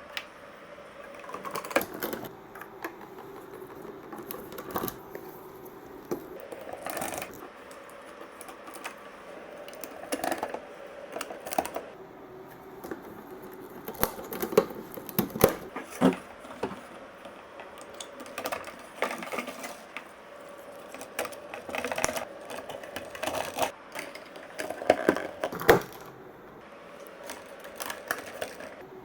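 Marbles rolling along a block marble run, a steady rolling rumble broken by many sharp clicks and clacks as they knock against the blocks and each other, coming in clusters.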